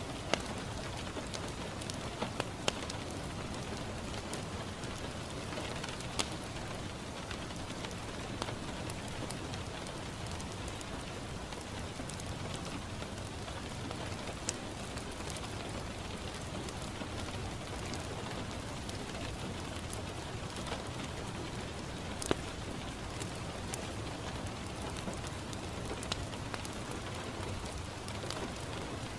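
Steady rain pattering on a window glass, mixed with a crackling wood fire: an even hiss with scattered sharp pops and clicks.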